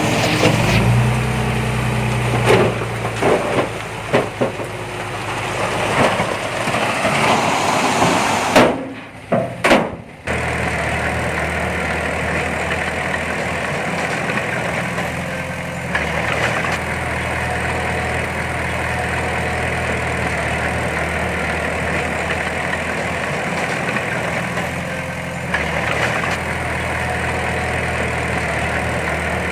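Heavy earthmoving machine's diesel engine running, with a few sharp clanks in the first several seconds. After a brief drop-out about nine seconds in, the engine runs on steadily.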